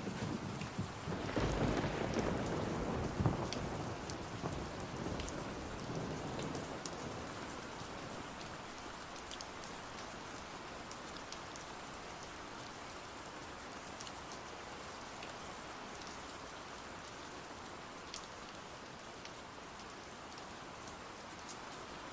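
Steady rain with a roll of thunder rumbling in the first few seconds and dying away, then the rain hissing on alone with scattered light ticks.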